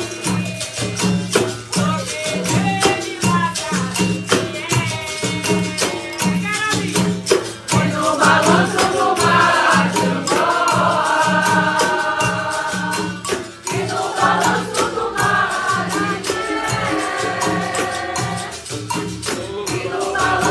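Capoeira Angola bateria playing: berimbaus with caxixi rattles and a pandeiro over a steady low drum beat, about two beats a second. Voices sing over the instruments, strongest from about eight seconds in.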